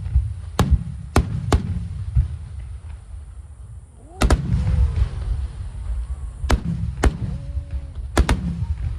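Fireworks bursting: sharp bangs over a continuous deep rumbling of shell bursts. There are three bangs in the first two seconds, a double bang about four seconds in, single bangs near six and a half and seven seconds, and another double bang near the end.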